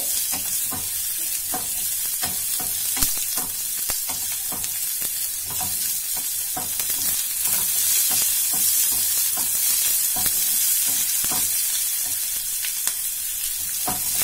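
Sliced button mushrooms sizzling as they sauté in hot oil in a non-stick frying pan, with repeated taps and scrapes of a spatula stirring and turning them.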